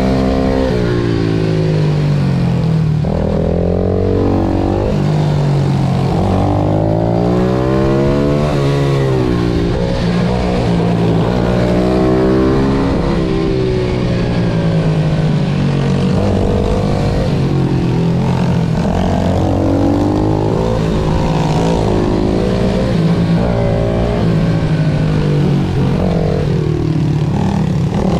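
Pit bike engines on track, revving up and dropping back again and again as they accelerate and shift, with two engine pitches crossing at times.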